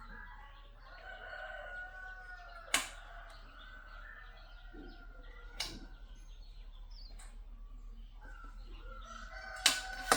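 A rooster crowing twice, each a long drawn-out call, with three sharp clicks in between.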